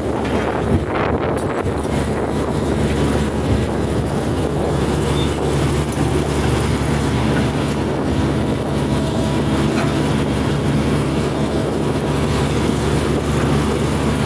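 Diesel engine of a Hitachi hydraulic excavator running steadily under load.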